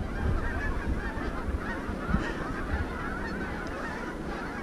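A large flock of Canada geese honking, many calls overlapping into a continuous chorus.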